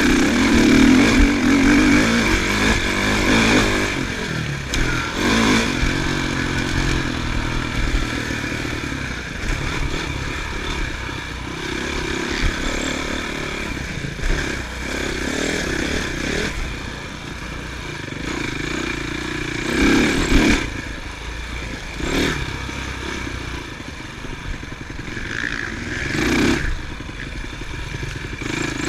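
Motocross bike engines running and revving, rising and falling in pitch throughout, with louder moments near the start and twice near the end.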